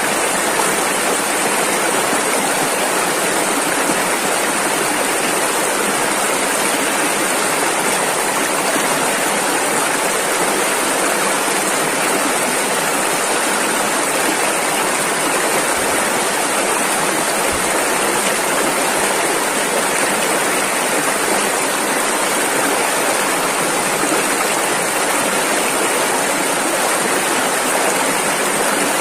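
Rushing river water, a steady, unbroken rush of fast-flowing rapids.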